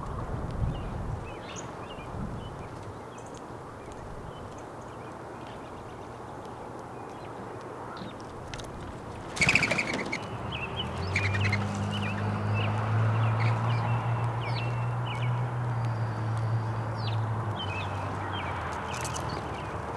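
Wild songbirds chirping, with short high calls scattered throughout over steady outdoor background noise. A sudden loud sound comes about halfway through, followed by a low steady hum for several seconds.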